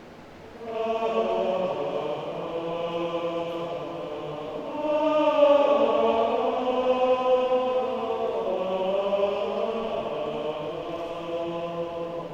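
Adult men's choir singing held chords. The voices come in fuller about half a second in, swell louder about five seconds in, then ease off gradually.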